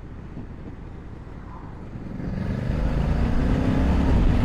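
Honda Africa Twin's 1084 cc parallel-twin engine running low for about two seconds, then rising in pitch and loudness as the bike accelerates hard.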